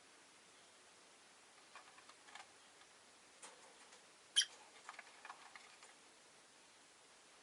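Rosy-faced lovebirds moving about their cage: faint scattered ticks and clicks, with one sharper, louder short sound a little past halfway.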